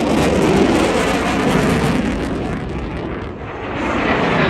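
Jet aircraft flying over at low altitude, a loud rushing engine roar that fades about three seconds in and then swells again as another pass comes in.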